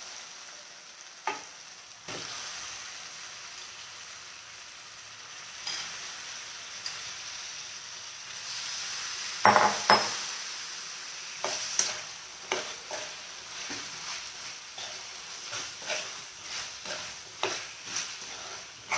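Chicken pieces sizzling in hot oil and ghee in a kadai with a fried onion, ginger and garlic paste, stirred with a spatula scraping against the pan. The sizzle picks up about two seconds in, there is a loud clatter of strokes near the middle, and short scraping strokes come about once a second in the second half.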